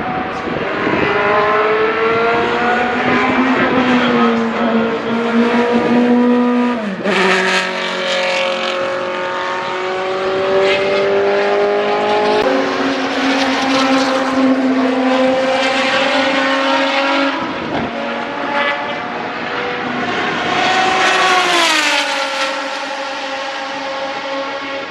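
Group C sports-prototype race car engines running hard at high revs. The pitch drops sharply twice along the way, and there is a long falling sweep about 22 seconds in.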